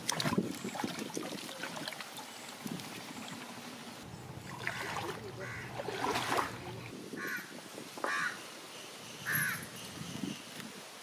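A handful of short, harsh bird calls, spaced about a second apart in the second half, over rustling and scraping at the start.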